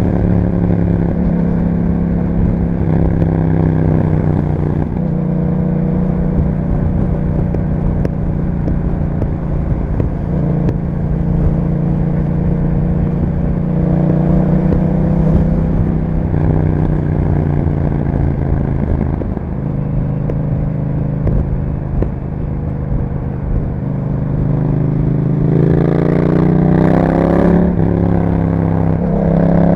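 The 689 cc parallel-twin engine of a 2021 Yamaha MT-07 running through an Akrapovic exhaust with a dB killer fitted, ridden at fairly steady revs. Near the end it accelerates with the revs rising twice, dropping in between at a gear change.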